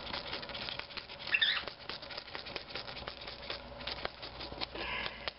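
Lovebird working at a paper envelope with its beak: a steady run of small taps, clicks and paper rustles, with a brief high squeak about a second and a half in.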